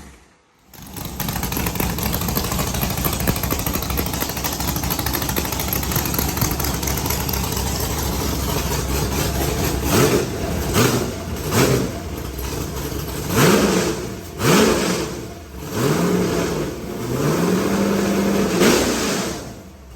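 Stroker V8 with a custom camshaft and open zoomie headers, idling steadily, then free-revved. About halfway through come several quick throttle blips, followed by two longer revs held briefly near the end.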